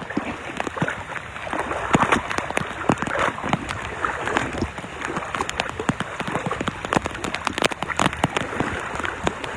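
Rain falling, with a dense run of irregular close taps and clicks over a steady hiss of water.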